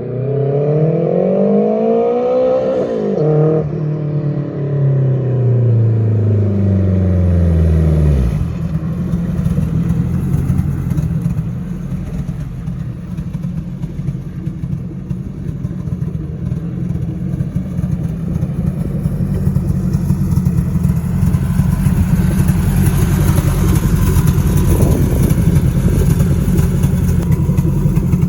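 Turbocharged K24A four-cylinder engine in a 1996 Honda Prelude, revving up and then slowly winding back down over about eight seconds. After that it settles into a steady, rough idle rumble.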